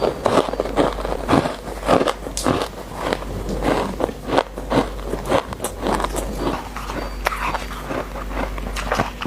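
Close-miked biting and chewing of shaved ice: a quick, uneven run of sharp crunches and squeaks.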